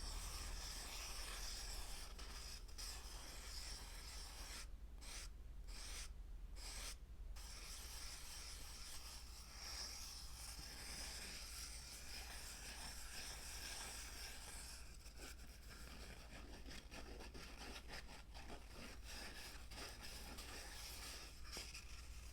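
Close-miked rubbing and scratching on a surface, used as an ASMR trigger. It runs as a continuous scratchy hiss with a few brief breaks around five to seven seconds in, then turns into quicker, more separate scratch strokes in the second half.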